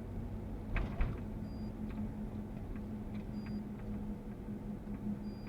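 Steady engine and road hum inside a moving GAZ Sobol van's cabin. A short high beep repeats about every two seconds, and two sharp knocks come about a second in.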